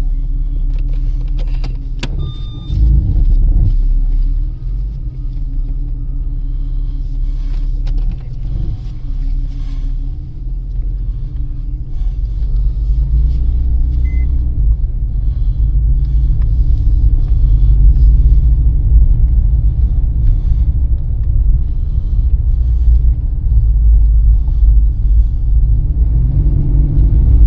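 Porsche 996 Carrera 4's flat-six engine running steadily, with a click and a brief louder stretch about two seconds in, then growing louder about halfway through and staying up.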